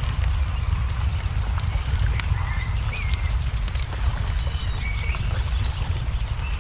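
Ambience of a crackling wood fire with scattered sharp pops over a steady low rumble. Short bird chirps and calls sound now and then.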